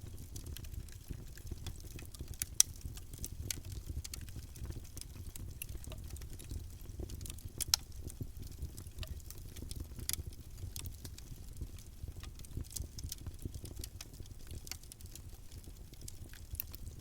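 Campfire of burning wood crackling: a steady low rumble of flames with scattered sharp snaps and pops. Two louder pops come about two and a half seconds in and just before eight seconds.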